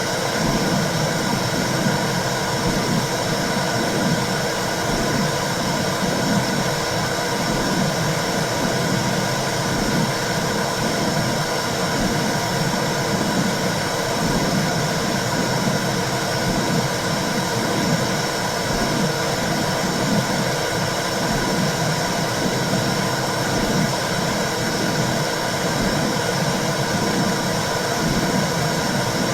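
Womb sound for soothing a baby: a steady whooshing noise with a rhythmic low pulse running through it.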